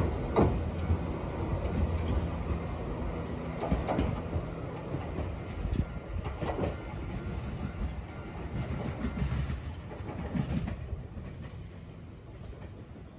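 Nankai 7100-series electric commuter train pulling away down the line, its wheels clacking over the rail joints now and then. The running noise fades steadily as it draws into the distance.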